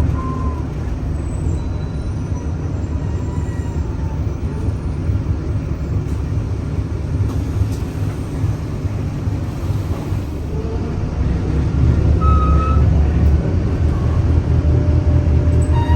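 Scania K310UA city bus running with a steady low engine drone and a faint whine that glides up and down in pitch. The engine gets louder from about eleven seconds in.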